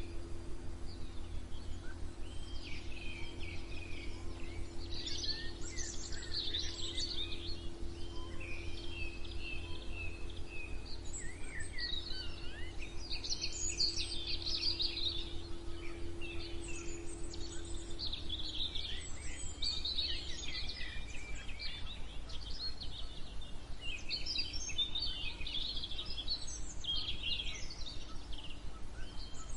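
Several songbirds singing and chirping in overlapping short trills and calls over a steady low hum and rumble. The hum changes pitch about two-thirds of the way through.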